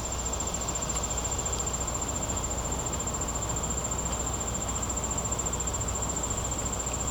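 Crickets trilling steadily in one high, even pulsing note over a constant low background rumble.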